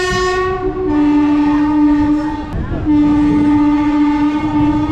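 Locomotive horn sounding as the train gets under way: the note steps down to a lower pitch within the first second, breaks briefly about two and a half seconds in, then sounds again as a long low blast, over the rumble of the moving train.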